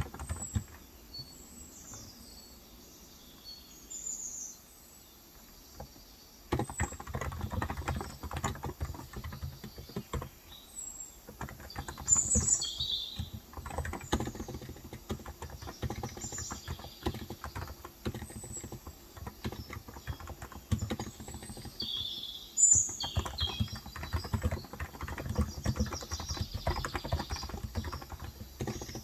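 Typing on a Cox Endeavor electro-capacitive keyboard with 35 g switches: quiet at first, then fast runs of keystrokes from about six and a half seconds in, with short pauses. Small birds chirp throughout.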